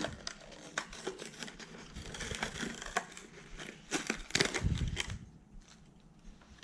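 Plastic lure packaging being handled and opened, crinkling and crackling with many sharp clicks, busiest up to about five seconds in.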